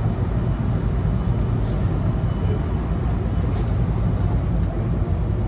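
Steady low hum and rumble in the cab of an Enoden electric train standing still, its onboard equipment running.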